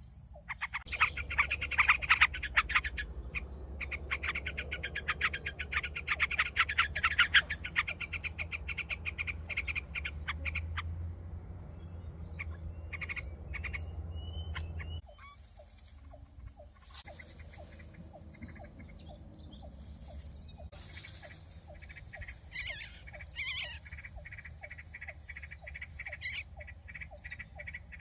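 Rapid, rattling animal calls, croak-like, fading over the first ten seconds or so. After a sudden break about fifteen seconds in come sparse regular ticks and a few short chirps, over a steady thin high whine.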